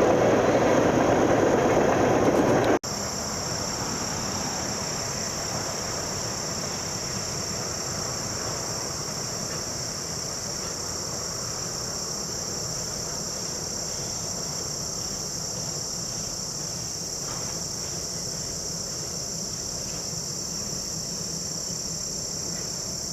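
A passing train's rumble for nearly three seconds that cuts off abruptly, followed by a steady, high-pitched chorus of chirping insects.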